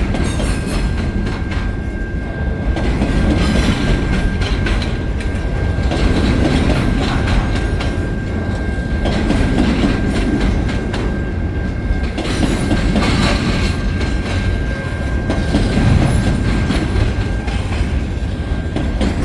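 Freight cars of a long CN freight train rolling past at the crossing: a steady rumble with the clickety-clack of wheels over rail joints, and a thin steady high tone throughout.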